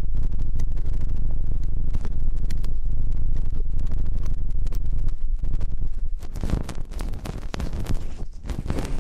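Close-miked ASMR ear sounds on a binaural microphone: dense crackling and scraping right at the mic's ear, over a heavy low rumble, easing somewhat about six seconds in.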